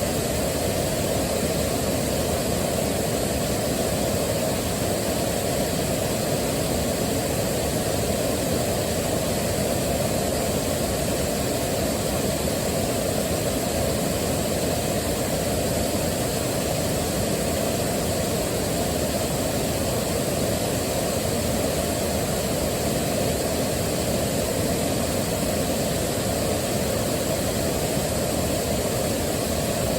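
Waterfall: a steady, unbroken rush of falling water, heaviest in its low rumble.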